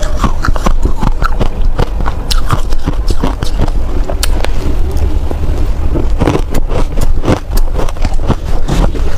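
Ice or packed snow being bitten and chewed close to the microphone: a dense, irregular run of sharp crunching cracks over a steady deep rumble.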